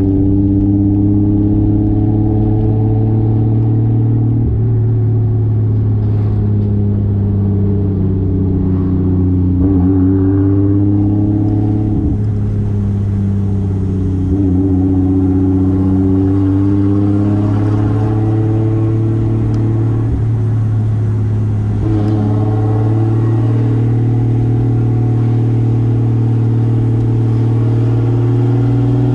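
Toyota 2JZ inline-six with a single-turbo conversion driving the car at a steady, moderate pace, its drone holding steady while the pitch of its overtones eases up and down several times with light throttle changes.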